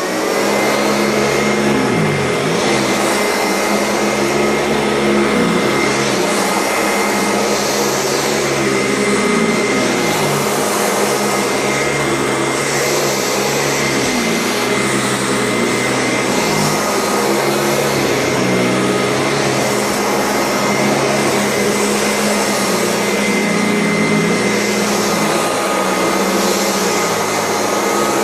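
Euroclean vacuum cleaner with a motorised brush roll running steadily while vacuuming: a continuous motor whine over rushing air. The low hum sags and recovers briefly every few seconds as the load on the motor shifts.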